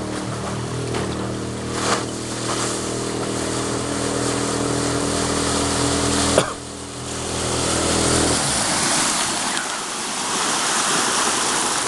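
Suzuki DF6 four-stroke outboard motor running steadily. A sharp click about six seconds in is followed by a drop in its note, and the engine stops about two seconds later, leaving a steady rush of water.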